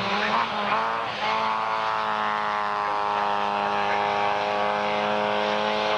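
Rally car engine running at high revs. Its note shifts in the first second, then holds nearly steady.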